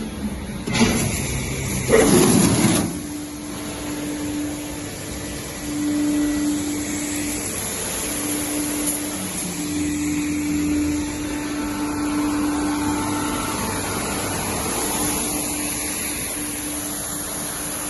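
Semi-Stal Compact 1½ crate washing machine running: a loud rushing noise for about two seconds near the start, then a steady mechanical hum with a faint high hiss.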